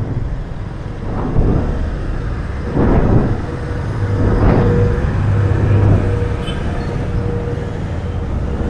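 An engine running steadily: a low rumble with a constant hum, and a few short, indistinct voices over it.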